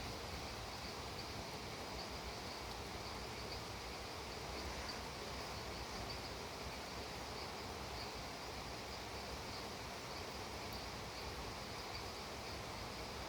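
Steady rain falling, an even hiss, with insects chirping in a high, regular pulsing rhythm.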